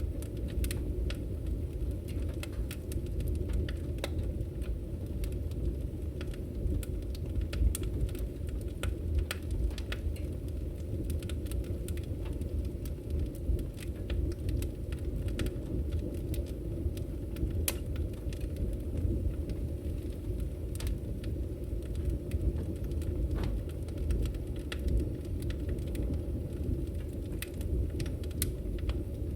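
Wood fire burning in a fireplace: a steady low rumble of the flames with frequent sharp crackles and pops from the firewood.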